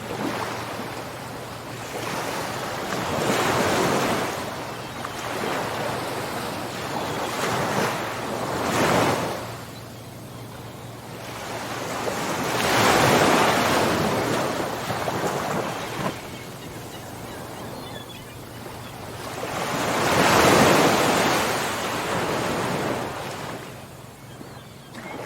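Ocean waves breaking and washing on the shore, the surf rising and falling in slow swells every few seconds, the loudest near the middle and about two-thirds of the way through, with some wind on the microphone.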